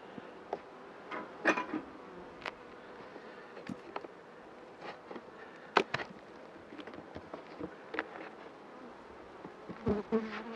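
Honeybees buzzing around an open hive, a faint steady hum, with scattered sharp clicks and knocks through it.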